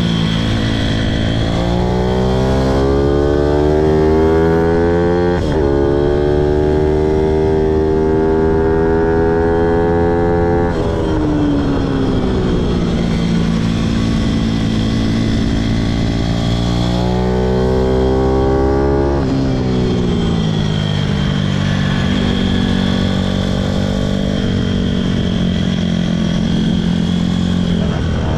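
Pitom pit bike's single-cylinder four-stroke engine under way, revs climbing hard with a quick upshift about five seconds in and climbing again. About ten seconds in the revs drop and fall slowly for several seconds as the bike slows, then it pulls again and runs at fairly steady revs.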